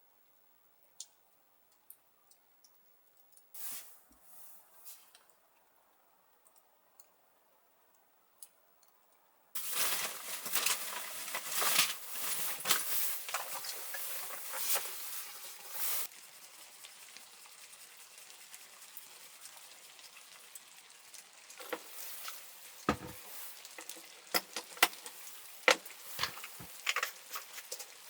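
Food hitting a hot pan: a sudden loud sizzle about a third of the way in, settling after several seconds into a steady sizzle with frequent crackles and pops.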